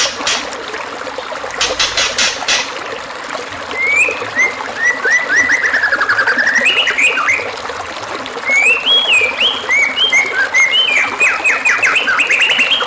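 White-rumped shama (murai batu) singing varied whistled phrases: quick runs of rising and falling notes in two long bursts, over a steady trickle of running water. A short run of sharp clicks about two seconds in.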